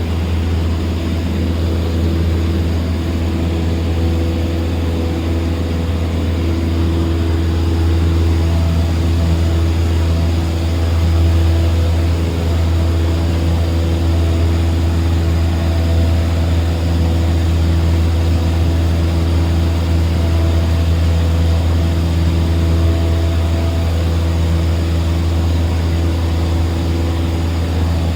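Cessna 152's four-cylinder Lycoming engine and propeller droning steadily at a constant power setting.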